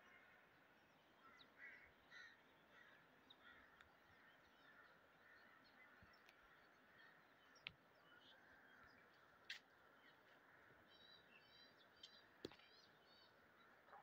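Faint birds chirping in short, scattered calls, with a quick run of repeated chirps near the end. Three sharp clicks stand out above them, the last one the loudest.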